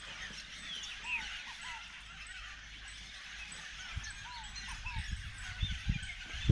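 Birds calling over and over in short rise-and-fall notes, with a few low thumps in the second half.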